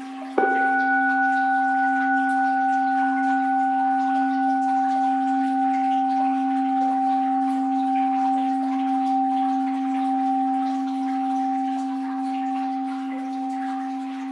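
An orin (Japanese Buddhist bowl bell) is struck once about half a second in and rings on, slowly fading. It has a low fundamental and higher overtones, the highest dying away first, and the ring wavers gently in loudness. A faint wash of flowing water lies beneath it.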